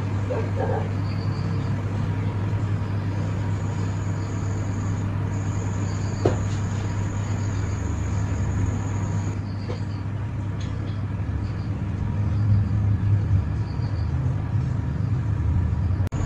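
A machine running steadily with a strong low hum and a faint high whine that comes and goes, growing a little louder near the end.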